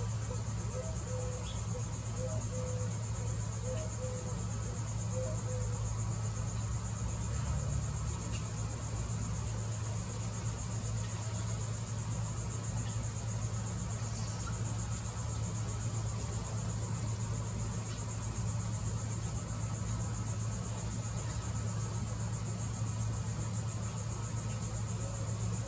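Steady, high-pitched summer insect chorus over a constant low hum, with a string of short low notes, about two a second, during the first six seconds.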